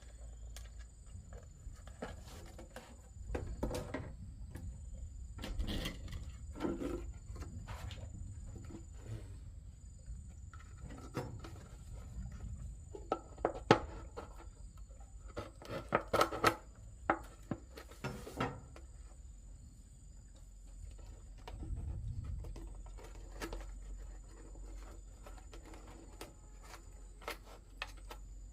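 Irregular knocks and clatter of things being handled, loudest in a cluster about halfway through, over a low rumble and a faint steady high tone.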